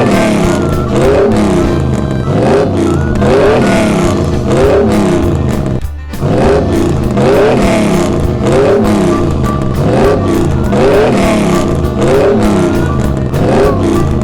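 Car engine revving up and falling back again and again, about once a second, with background music.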